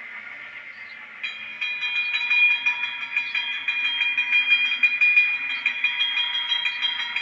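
Zimo sound decoder in a model battery locomotive playing its sound through the model's small speaker: a steady whine of several held tones with a light regular clicking, starting about a second in.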